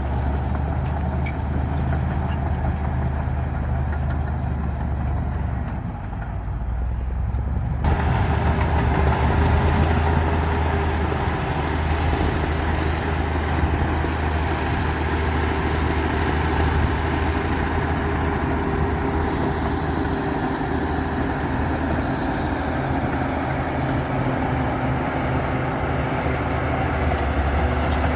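Komatsu D60P bulldozer's diesel engine running steadily. About eight seconds in, the sound changes abruptly and gets a little louder, with a thin high whine added.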